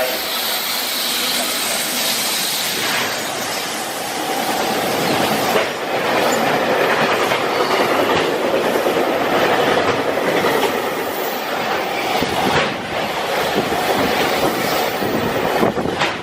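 Freight train hauled by a JR Freight EF510 electric locomotive passing through without stopping: a steady rumble of steel wheels on the rails with repeated clicks over the rail joints.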